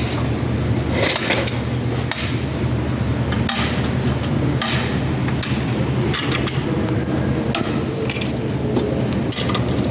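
Hammer knocks during engine rebuild work, about half a dozen spaced irregularly, over a steady low hum.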